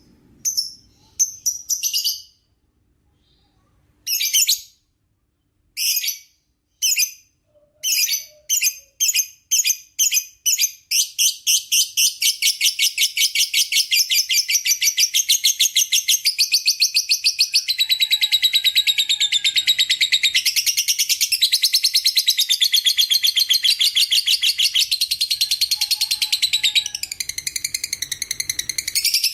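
Lovebird giving its long 'ngekek' chatter. A few separate sharp high chirps with pauses open it, then the notes repeat faster and faster until, about ten seconds in, they run together into a long, unbroken, rapid rattling chatter.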